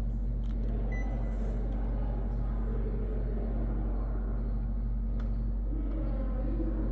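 Panasonic CS-PN9AKJ split air conditioner running with a steady low hum.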